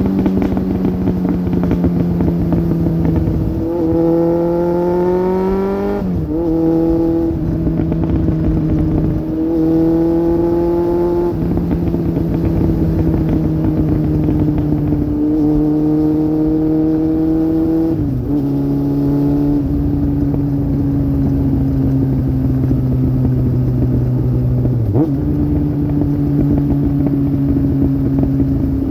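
2002 Suzuki GSX750F's inline-four engine heard through a Black Widow aftermarket exhaust while riding. The revs climb twice early on, each climb ending in a sudden drop at a gear change. The engine then holds a steady note at cruising speed, easing slowly down, with two more brief changes in pitch.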